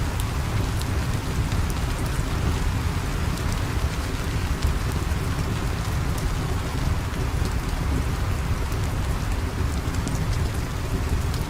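Steady heavy rain, an even hiss over a deep low rumble, with occasional faint sharp ticks.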